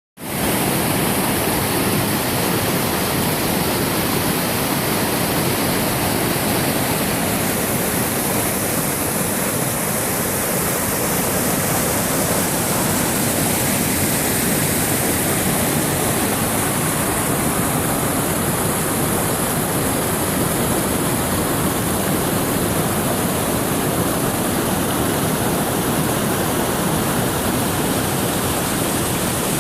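Mountain stream of snowmelt water rushing over its bed: a loud, steady rush of water with no break.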